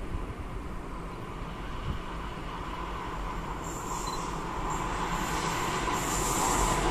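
Electric-hauled freight train of sliding-wall wagons approaching, its rolling noise growing steadily louder. A thin high-pitched wheel squeal comes in about halfway through and returns near the end.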